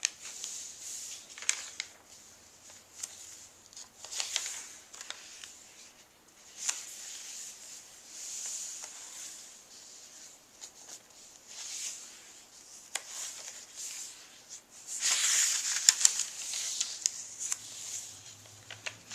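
Paper rustling as the pages of a handmade junk journal are turned and handled: a run of short rustles and soft clicks, with the loudest, longest rustle about three quarters of the way through.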